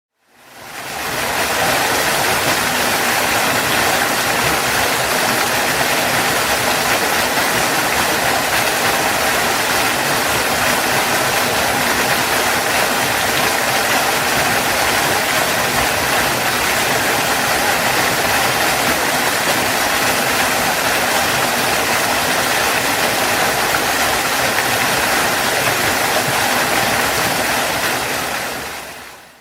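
Waterfall, water falling and rushing in a steady, even roar, fading in at the start and fading out near the end.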